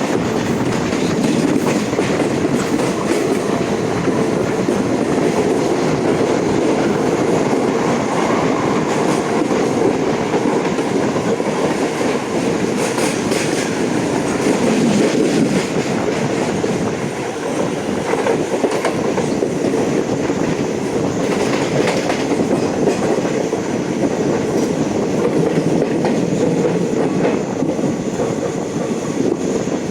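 Trains running at speed side by side on a Mumbai line: a steady, loud rush of steel wheels on rails, with clickety-clack over the rail joints.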